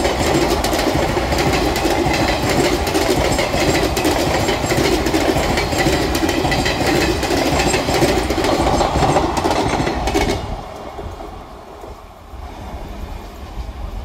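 ICF passenger coaches of an express train rolling past close by, their wheels clattering over the rail joints. About ten seconds in the last coach goes by and the noise drops sharply to a fading rumble.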